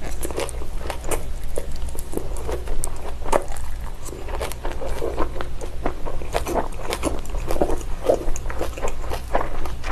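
Close-miked chewing of raw salmon with leafy salad greens: a stream of irregular wet mouth clicks and smacks with some crisp crunches, over a low steady hum.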